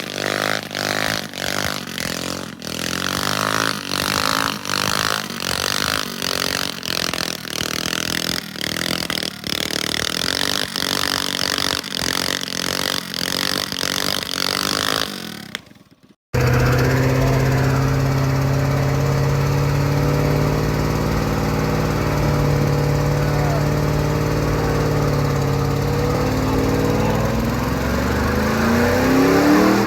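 Truck engines running loudly. The first half has a regular pounding rhythm; after a cut, a steady engine drone rises into a rev near the end.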